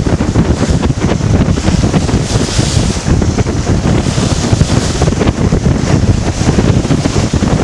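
Heavy wind buffeting the microphone, with waves and water rushing along the hull of a sailboat heeled over and beating into the chop.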